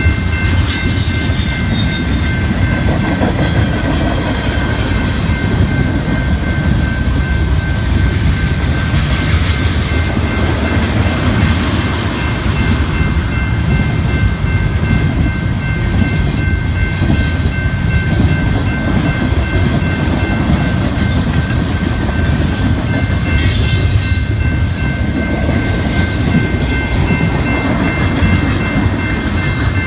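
Train rolling past close by: a loud, steady rumble of wheels on the rails, with a steady high ringing tone running through it.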